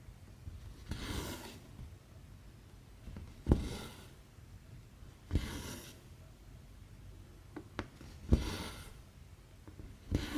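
Needle pushed through 11-count cross-stitch fabric and the thread drawn through after it: a soft tap, then a short rasping hiss. It repeats about every two to three seconds, some five times.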